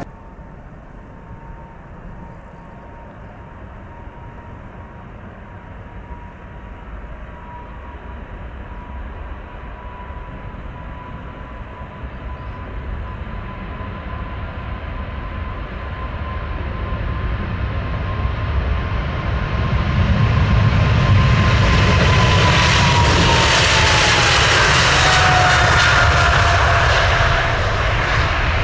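Jet airliner flying past: engine noise builds steadily to a loud rumble and roar. A high engine whine holds one pitch, then drops in pitch as the aircraft passes, near the end.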